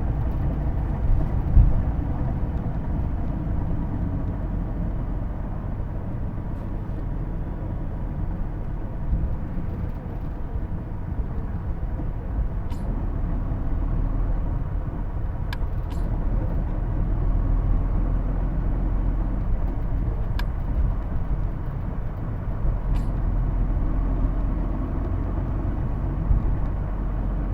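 Cabin running sound of a Hino Blue Ribbon II PJ-KV234L1 city bus: a steady engine and drivetrain drone with the distinctive transmission whine that makes this bus sound like an automatic. A few faint clicks are heard along the way.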